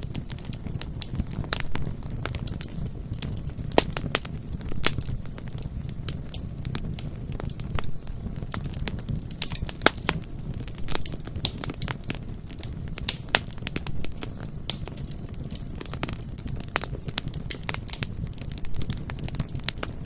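Bonfire burning: irregular sharp crackles and pops from the wood over a steady low rumble of the flames.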